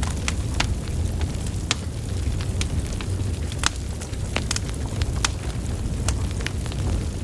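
Wood fire burning, with sharp irregular crackles and pops from the logs over a steady low rumble of the flames.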